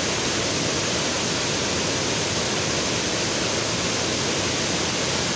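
River water rushing steadily, a constant, even noise.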